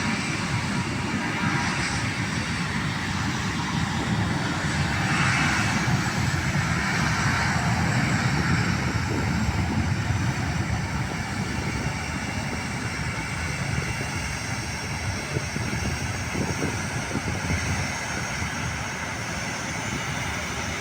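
Airliner jet engines running as a plane moves along or near the runway: a steady rush that swells a few seconds in, then slowly eases off.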